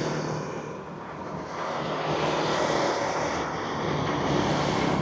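Engine noise of passing vehicles: a steady wash of sound that dips about a second in and swells up again.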